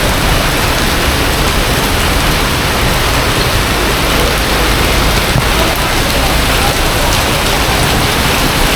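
Heavy storm rain pouring down in a loud, steady downpour.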